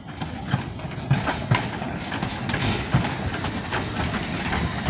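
Narrow-gauge steam train passing close by, its wheels knocking and clattering in an uneven rhythm over the rail joints and pointwork.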